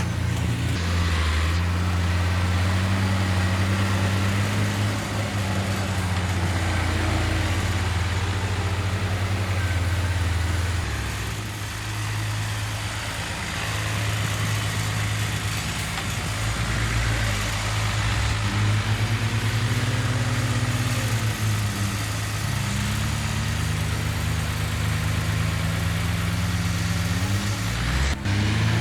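Heavy diesel engine of earthmoving equipment running steadily, its pitch rising and falling a few times in the second half as the revs change.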